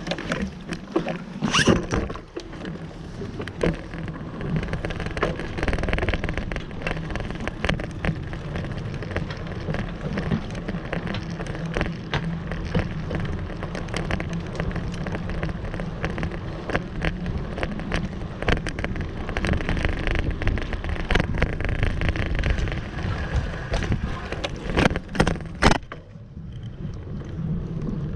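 Continuous rumbling and rattling of a bicycle being ridden, with many small clicks and a few sharp knocks, two of them close together near the end, after which it goes briefly quieter.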